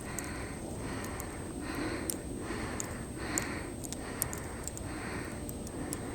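Footsteps crunching through snow at a steady walking pace, a soft crunch a little more than once a second.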